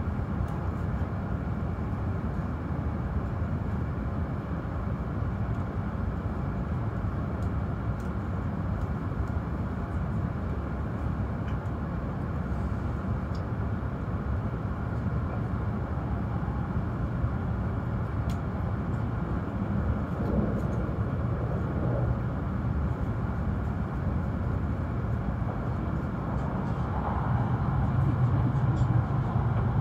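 E5-series Shinkansen train running at reduced speed: a steady low rumble of the train in motion, growing louder over the last few seconds.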